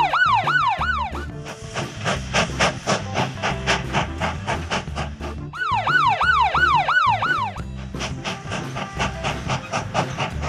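Police siren in a fast up-and-down yelp, sounding in two short bursts of about two seconds each: one at the start and one about halfway through. Background music with a steady beat plays under it.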